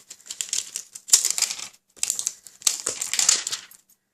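Crinkly packaging being handled and rustled by hand, in three bouts of about a second each, the last one longest.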